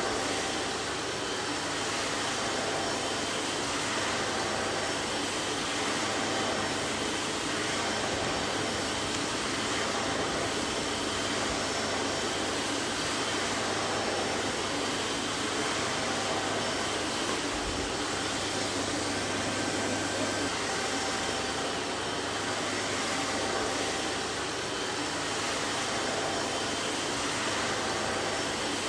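Vacuum cleaner running steadily: an even rush of motor and airflow with a faint, constant high whine, holding the same pitch and level throughout.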